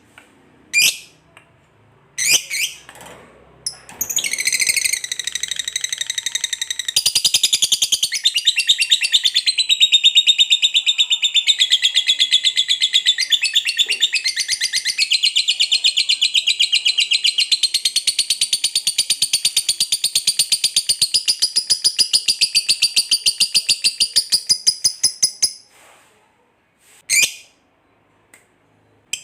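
Lovebird giving a few sharp chirps, then about four seconds in breaking into its long 'ngekek' chatter: a rapid, unbroken run of high, repeated notes lasting some twenty seconds before stopping, followed by another couple of sharp chirps near the end.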